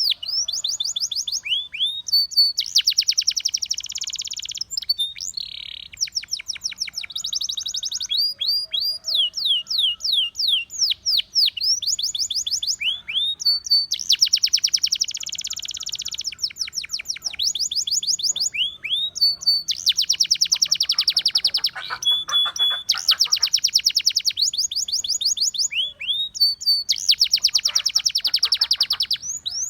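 Domestic canary, a Russian singing canary, in continuous song: runs of rapid, high, falling whistled notes alternate with fast, dense trills, phrase after phrase. The song cuts off suddenly at the very end.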